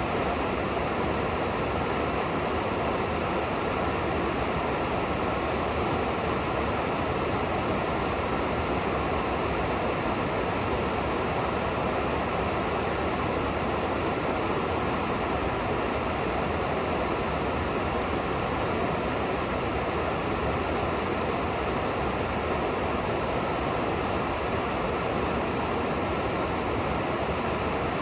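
River water rushing by in a steady, unbroken wash.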